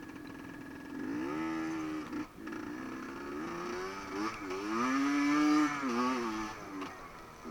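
Off-road motorcycle engine revving, its pitch rising and falling several times as the throttle is opened and eased off, loudest about two-thirds of the way through.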